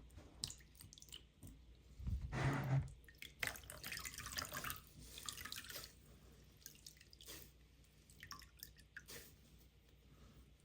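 Water splashing and dripping as a matted Scruff-a-Luvs plush is washed by hand, loudest about two seconds in and tapering to scattered drips.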